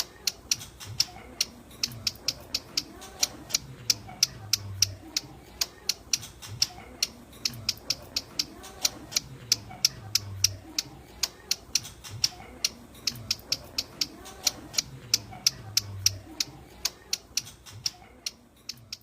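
Ciblek gunung (hill prinia) calling: a long run of dry, sharp ticking notes, about three a second, kept up without a break.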